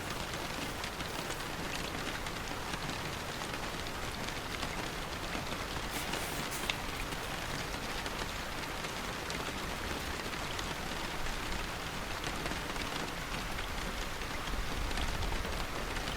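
Steady rain falling, a dense even patter, with a brief crisp sound about six seconds in.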